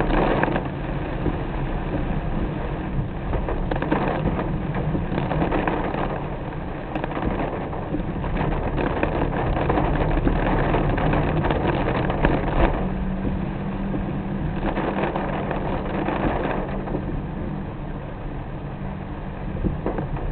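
Car driving in the rain: steady road and engine noise mixed with rain on the car, swelling and easing several times, with a low steady hum coming in about two-thirds of the way through.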